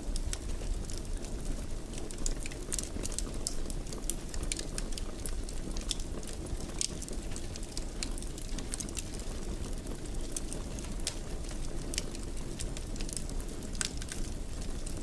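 Wood fire in a fireplace crackling, with frequent irregular sharp pops and snaps over a steady low rumble of the burning.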